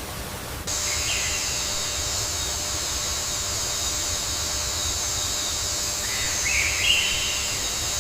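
Outdoor nature ambience: a steady high hiss starts about a second in over a low rumble, and two brief bird chirps come through, one early and one near the end.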